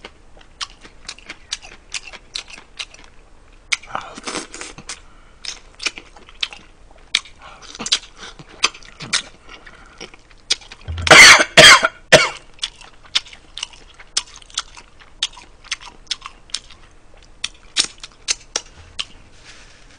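Close-miked mouth noises of a person eating braised pork ribs with rice: wet chewing, lip smacks and small clicks going on all the time. A loud cough-like burst from the eater comes about eleven seconds in.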